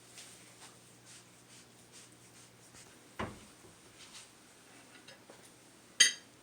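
Light handling noises: faint rubbing and scattered small clicks, a single knock about three seconds in, and a sharp rattling click near the end.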